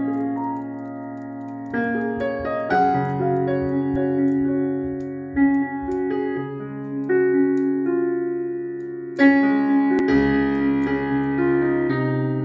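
Soft background piano music, held chords changing every second or two.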